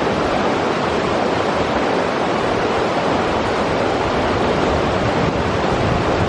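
A river rushing over rocks: a steady, loud roar of flowing water with no breaks.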